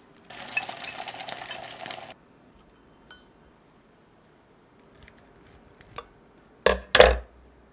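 Kitchen utensils working against dishes and a pan: a stretch of scraping and stirring that stops abruptly, a few light clinks, then two loud knocks near the end.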